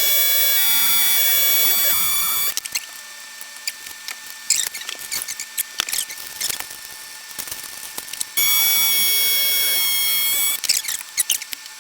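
A small electric motor whining in two bursts of about two seconds each, one at the start and one about eight seconds later, with clicks and handling noise in between.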